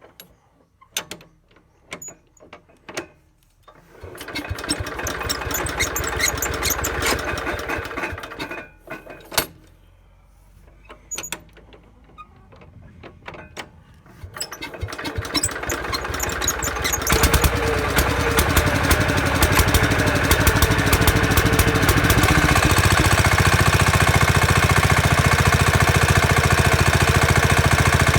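Small tractor engine of a Howard Gem: after a few clicks it runs for about four seconds and stops, then starts again and builds up to a steady, loud run that cuts off abruptly.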